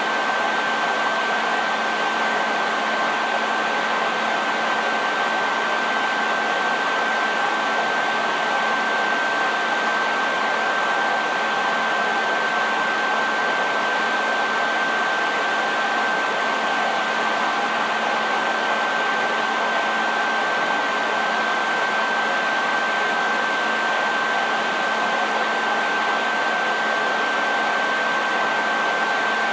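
Hair dryer running continuously: a steady airy rush with a constant high whine and a low motor hum.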